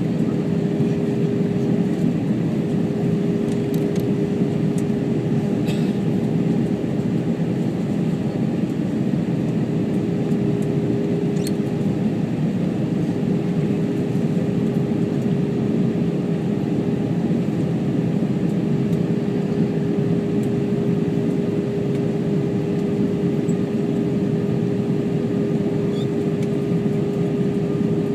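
Steady in-flight cabin drone of an Airbus A321: engine and airflow noise with a constant hum tone running through it.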